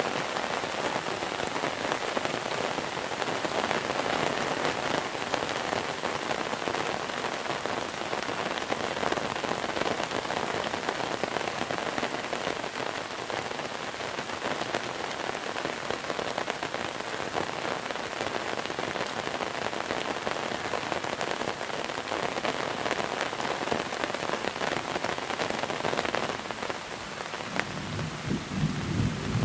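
Steady, heavy monsoon rain pattering down. Near the end a low rumble of thunder begins to build.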